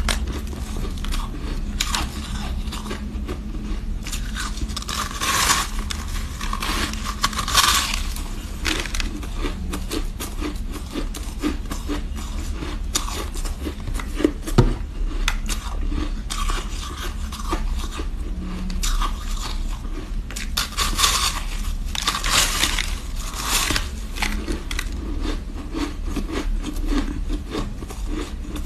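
Ice being bitten and chewed close to the microphone: continuous crackling and crunching, with several louder crunches as pieces break.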